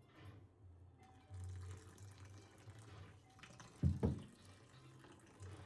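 Water running from a tap into a sink, starting about a second in. Two sharp knocks in quick succession just before the four-second mark are the loudest sounds. Soft background music plays underneath.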